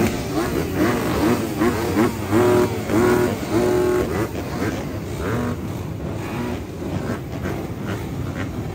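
Motocross bike engines accelerating on the track, pitch climbing and dropping again through repeated gear changes, then running quieter in the second half.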